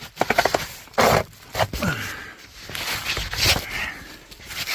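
Scraping and knocking of a person moving about in a cramped crawl space: a quick run of clicks, a loud scuff about a second in, and short grunts and heavy breaths.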